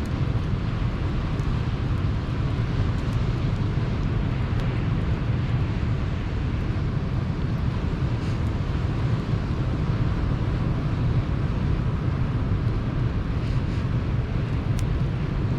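Sea surf washing in with a steady low rumble, and a few faint crackles from a wood campfire.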